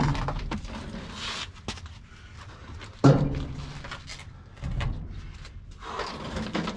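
Scattered knocks and scrapes of hands-on work with parts and tools, with one sharp knock about three seconds in.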